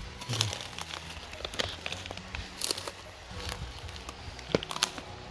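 Footsteps crunching over dry ground, with irregular crackles and snaps.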